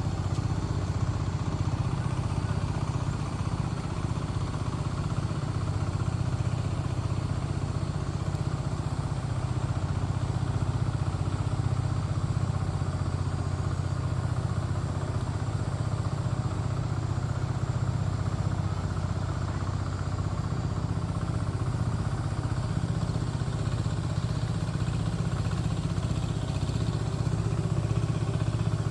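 A small engine running steadily at an even speed, a constant low hum with no change in pitch.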